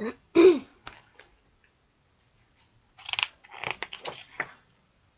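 Paper crackling and rustling with a few sharp clicks, as a picture book's pages are handled and turned, bunched about three to four and a half seconds in.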